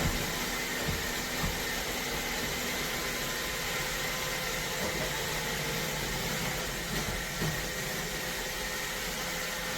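iRobot Roomba Vac Essential (Q0120) robot vacuum running: a steady whir with faint humming tones, and a few light knocks about a second in and again around seven seconds.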